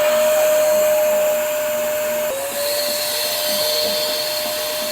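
Electric balloon inflator running: a steady blower hum with an airy hiss. It dips briefly a little over two seconds in, then comes back up to speed.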